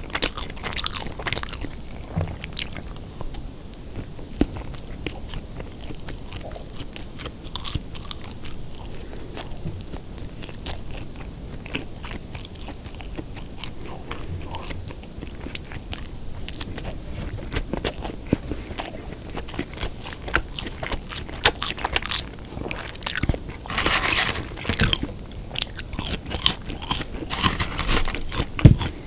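Close-miked chewing of a Lotteria Folder Burger (beef): a steady run of small wet clicks and crunches, sparser in the middle and busier again near the end.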